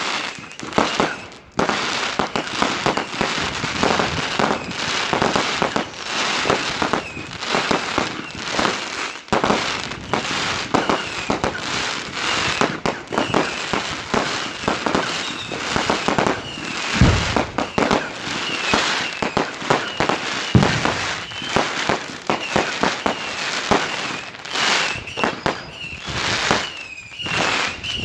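New Year's fireworks going off densely: rapid bangs and crackling with no let-up, short whistling glides repeating throughout, and two deeper booms about two-thirds of the way through.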